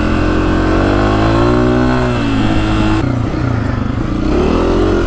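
2024 Honda CRF250F's single-cylinder four-stroke engine under way off-road. The revs climb for about a second and a half, ease off, then dip and rise again near the end. Heard from the rider's helmet camera.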